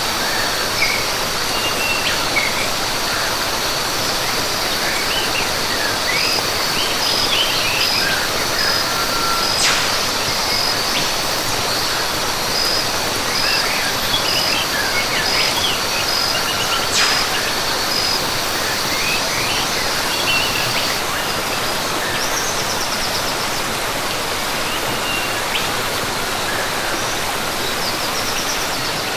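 Rainforest ambience: steady rushing water of a waterfall or stream under many birds chirping in short calls. A high, steady insect trill runs along with them and stops about two-thirds of the way through.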